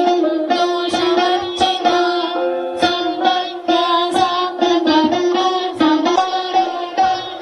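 An ensemble of veenas playing Carnatic devotional music: quick plucked notes over a steady drone note.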